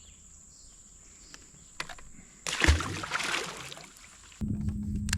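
A steady high insect buzz, broken about halfway by a sudden loud splash-like rush with a thump that lasts about a second and a half. Near the end a low rumble with a steady hum starts.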